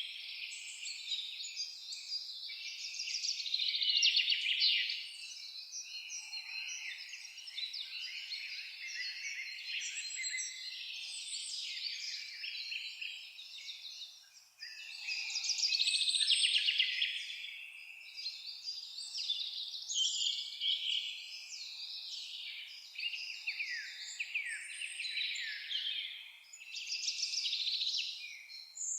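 A chorus of several songbirds singing and chirping at once: a dense, unbroken tangle of quick, high notes. It swells louder about four seconds in and again around sixteen seconds.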